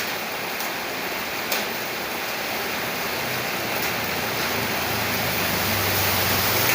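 Steady rain falling, an even hiss with a few sharp drips. About halfway through a low hum comes in and grows.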